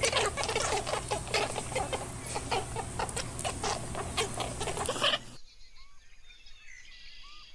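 Chickens clucking, a busy run of many short clucks, which cuts off abruptly about five seconds in. A much quieter stretch follows with a few faint short chirps.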